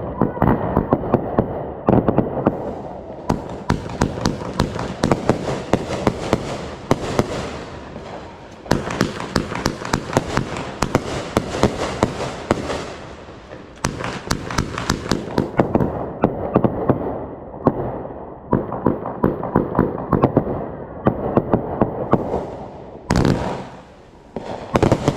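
Consumer fireworks going off: rapid crackling and popping in several long volleys with short lulls between them, then two louder bangs near the end.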